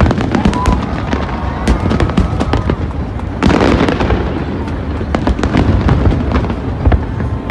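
Aerial fireworks going off in rapid succession: a steady stream of sharp pops and deep bangs, with a dense burst of crackling about halfway through.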